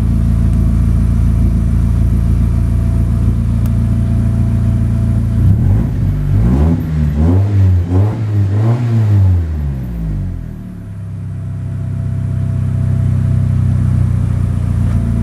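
Mitsubishi Pajero iO (H76W) engine, a used unit with 56,384 km described as in good condition, idling steadily, then revved in about four quick throttle blips about six seconds in, before settling back to idle.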